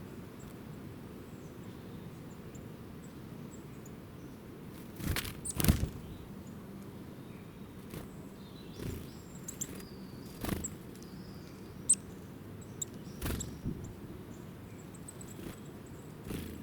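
Outdoor ambience with a steady low rumble, scattered faint, very short high chirps from small birds, and several sudden brief thumps or rustles, the loudest about five to six seconds in.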